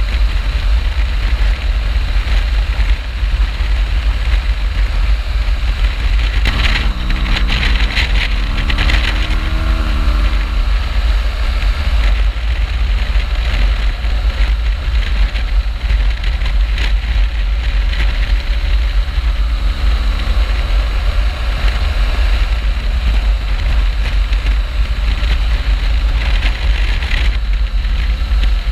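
BMW R1200GS flat-twin motorcycle engine running on the road under heavy wind buffeting on the microphone. The engine pitch rises in steps as it accelerates through the gears, about a quarter of the way in and again past the middle.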